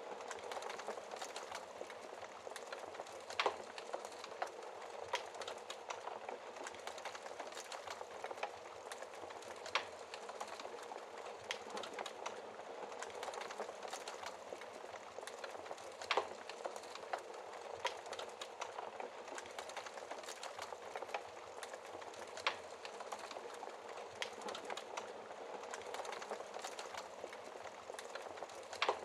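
Wood fire burning in a fireplace: a steady soft hiss of flames with dense, irregular crackling and a few sharper pops, the loudest about three and a half seconds in and again around ten, sixteen and twenty-two seconds.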